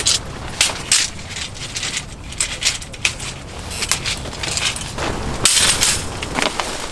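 Handling noises: a string of short clicks and crinkles, with a longer rustle about five and a half seconds in, typical of camping gear being unpacked and handled.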